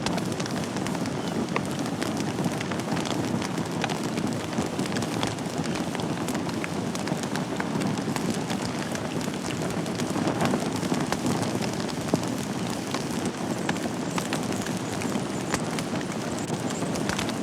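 Wood fire burning in a fireplace: a steady low rush of flames, with many small crackles and pops throughout.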